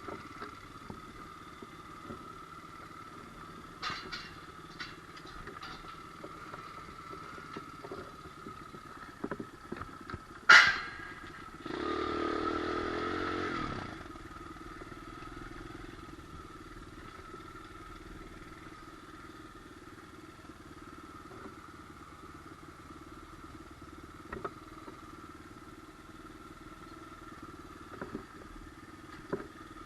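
Small pit bike engine running steadily, with one sharp loud clack about a third of the way in, followed by a louder stretch of about two seconds as the engine picks up before settling back.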